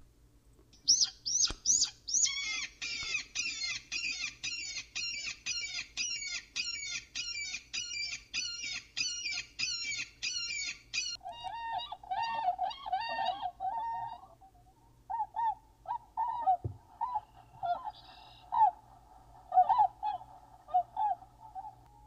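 An eagle's high, rapid chattering calls, repeated about twice a second, give way about eleven seconds in to a swan honking in short calls, with a brief pause partway through.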